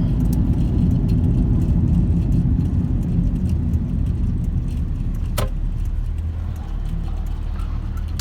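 A car driving, heard from inside the cabin as a steady low road and engine rumble, with a single sharp click about five seconds in.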